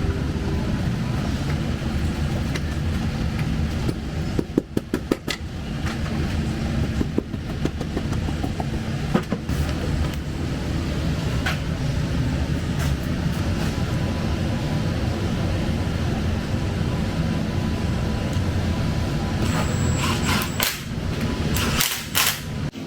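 Pistons being tapped down into the cylinder bores of a Ford 302 V8 block: a quick series of light knocks about five seconds in, a few single taps after, and another cluster near the end. A steady low hum runs underneath.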